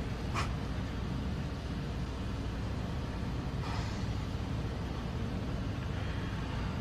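Steady low drone of an airliner cabin in flight, with a faint brief hiss a little past the middle.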